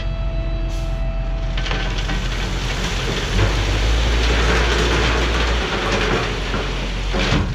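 Heavy equipment working crushed recycled concrete rock, a long rushing, crunching noise over a running diesel engine. It starts a couple of seconds in, swells in the middle and stops abruptly near the end.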